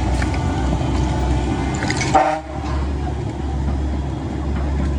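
Diesel engines of heavy earthmoving machinery running steadily, with a brief high-pitched tone about two seconds in.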